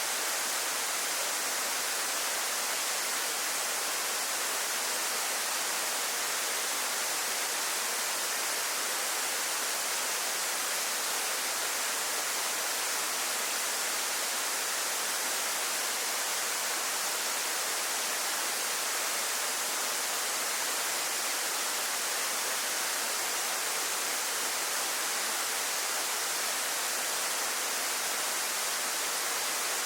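Waterfall falling steadily: an even, unbroken rush of water, strongest in the high hiss.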